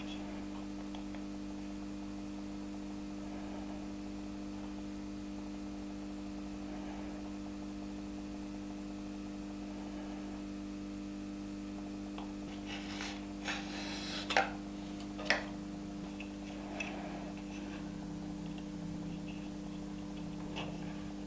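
Steady low electrical hum, with a few light knocks, ticks and rubbing sounds of handling in the second half.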